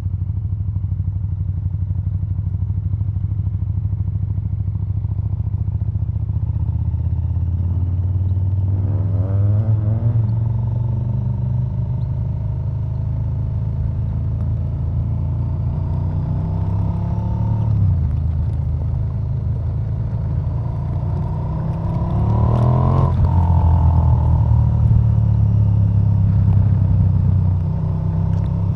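KTM 1290 Super Duke R's V-twin engine running under way, its note rising as the bike accelerates twice, about a third of the way in and again near the three-quarter mark, each time dropping off sharply afterwards.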